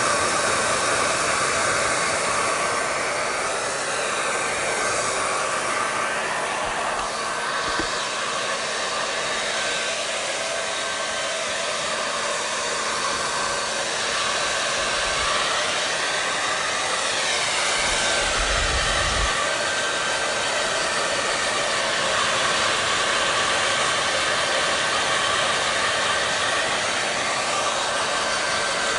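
Electric hair dryer running steadily: an even rushing hiss of blown air with a faint motor whine.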